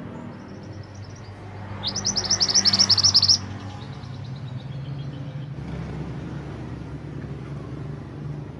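A mantenan gunung songbird singing: a few faint high notes, then about two seconds in a loud, rapid trill of many short high notes lasting about a second and a half, trailing off into softer notes. A steady low rumble runs underneath.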